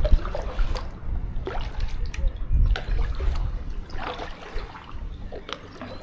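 Kayak paddle strokes with water trickling and dripping off the blades, over wind buffeting the microphone.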